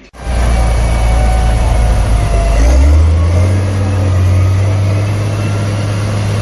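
Heavy diesel engine running, a loud low drone that steps up in pitch about three seconds in.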